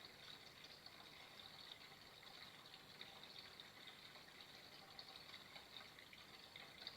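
Flowing water trickling steadily and faintly: a constant hiss with small, irregular splashes running through it.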